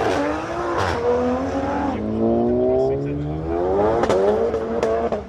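Car engine accelerating hard through the gears: its pitch climbs, drops back at each gear change and climbs again several times, with a couple of sharp cracks about four seconds in.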